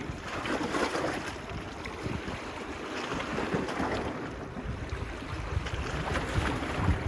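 Small waves washing onto a beach, swelling and easing every few seconds, with wind buffeting the microphone.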